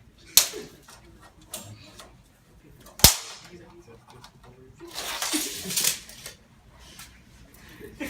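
Two sharp knocks, a small one just under half a second in and a louder, cracking one about three seconds in, followed by a couple of seconds of shuffling and handling noise.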